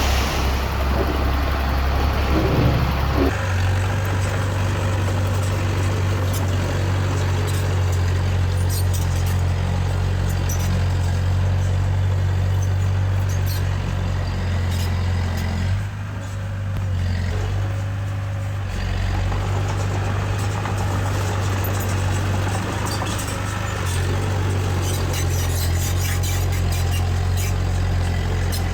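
Heavy diesel engine of earthmoving machinery running under load with a steady low drone. Its revs step up about three seconds in, ease off briefly around the middle, then pick up again, with faint scattered clicks and rattles over the top.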